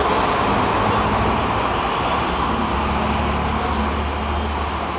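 Heavy vehicles passing close: steady tyre and diesel engine noise of trucks and buses, with a low engine hum under the rush of the tyres.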